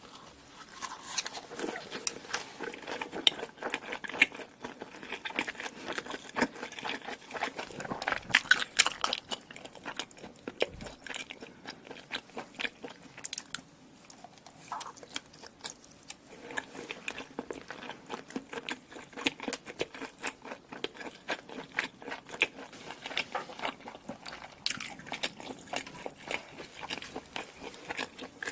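Close-miked eating: a person biting and chewing food with many small crunchy, wet mouth clicks, easing off for a few seconds in the middle.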